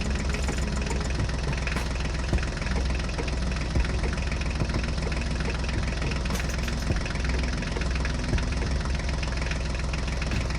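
The mini tractor's small engine runs steadily, with a low hum and a fast, even rattle.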